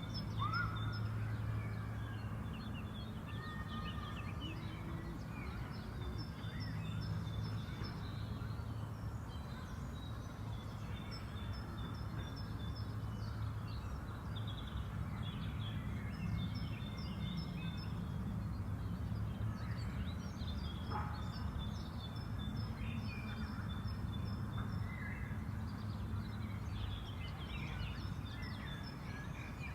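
Several songbirds chirping and trilling in short repeated phrases over a steady low hum of background noise.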